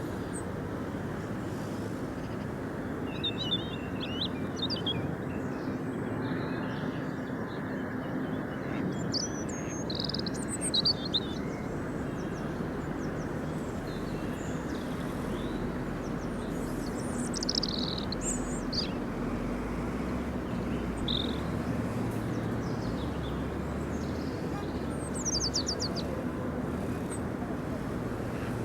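Small birds chirping and trilling in short calls every few seconds over a steady background noise with a low hum.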